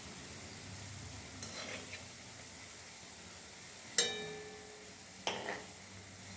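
Langcha dumplings frying in oil with a steady sizzle, while a utensil clinks against the pan now and then; the loudest is a single ringing clang about four seconds in.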